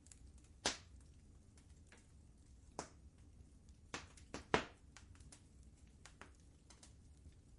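Wood fire crackling in a fireplace: irregular sharp pops and small ticks over a low steady rumble, the loudest pop about four and a half seconds in.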